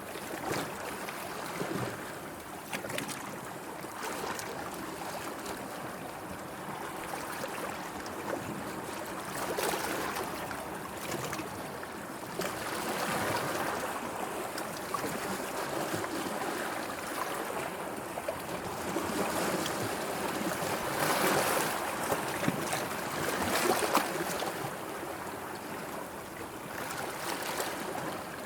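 Sea water washing and lapping, swelling and easing every few seconds, with small sharp splashes.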